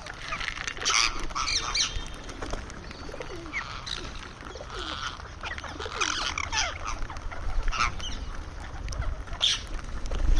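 Indian ringneck parakeet giving a string of short, irregular squawks and chirps, some sharp and some sliding in pitch, over a low background rumble.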